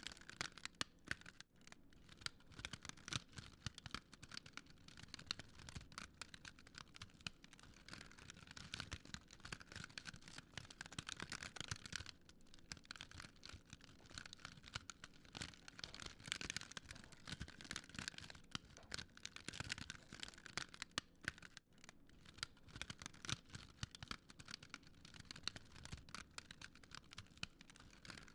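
Fire crackling steadily: a dense, uneven run of small pops and snaps over a soft hiss, faint throughout.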